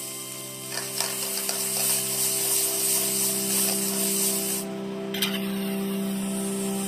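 Water spraying with a steady hiss, growing louder about a second in, over a steady low hum.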